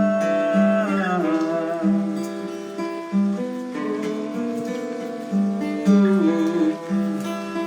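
Acoustic guitar being played, plucked notes and strummed chords ringing on, with a few notes that slide in pitch.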